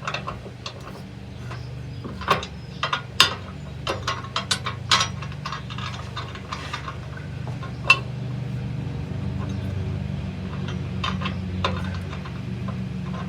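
Metal clicks and clinks of bolts, nuts and tools as a hitch mount is bolted up. A quick run of sharp irregular clicks comes a couple of seconds in and one more near the middle, over a low steady hum.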